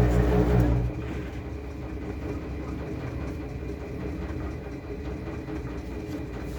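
Washing machine in its spin cycle: a loud motor hum cuts out abruptly about a second in, leaving a quieter rumble with a fast rattle as the drum keeps turning.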